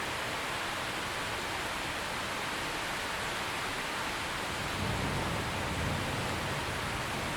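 Steady rain falling as an even hiss, with a low rumble swelling in about five seconds in.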